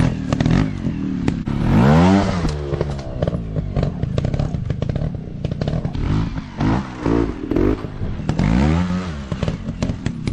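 Dirt bike engines revving, the pitch rising and falling in several bursts (about two seconds in, around the middle and near the end), over a steady run of sharp clicks and clatter.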